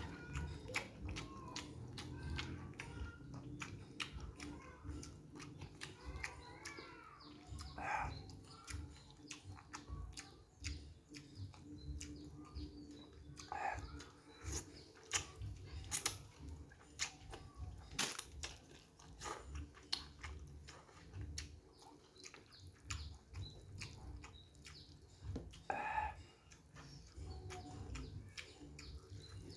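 Close-miked chewing of noodles and rice eaten by hand, with frequent wet mouth clicks and smacks. A bird chirps briefly a few times in the background.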